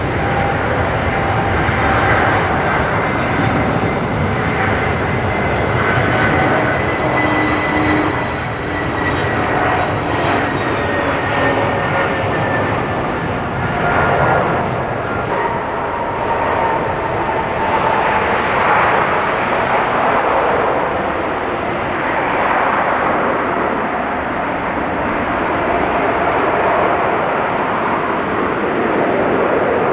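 Jet airliner's engines whining over a steady rushing noise as it comes in to land, several thin whine tones sliding slowly down in pitch as it passes.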